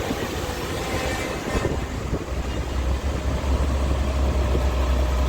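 Tractor engine running, a low steady drone that builds and grows louder from about two seconds in.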